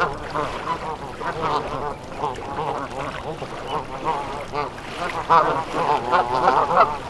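Flock of Canada geese calling: many short, overlapping honks and clucking calls, busiest and loudest in the second half.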